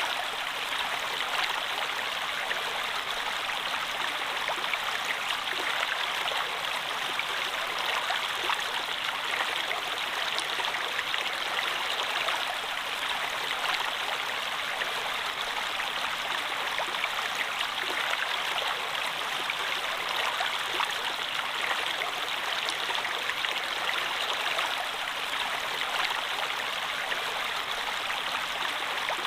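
Running water: a steady, unbroken rush of flowing water with faint scattered splashes.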